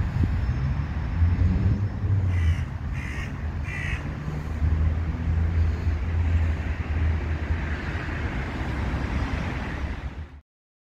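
A bird calling three times in quick succession, about two-thirds of a second apart, over a steady low rumble of city traffic. All sound cuts off suddenly shortly before the end.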